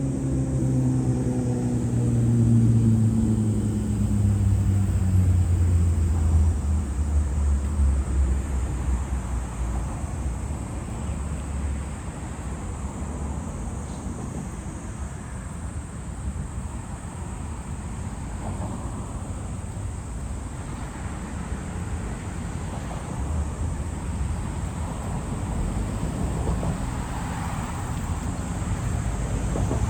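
Traffic: a passing motor vehicle whose engine tone slowly falls in pitch over the first ten seconds or so and fades, followed by a steady low rumble of traffic.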